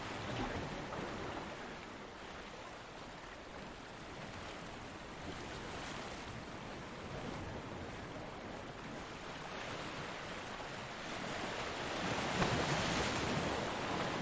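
Ocean waves breaking on a beach, a steady rush of surf that eases off and then swells again with a louder breaking wave near the end.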